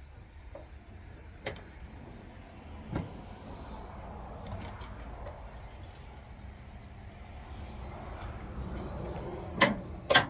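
Faint steady low rumble with a few scattered clicks and knocks, then two loud sharp bangs about half a second apart near the end.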